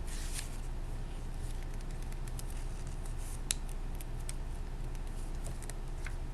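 A picture book being handled and its pages turned: soft scattered rustles and light clicks over a steady low hum, with one sharper click about halfway through.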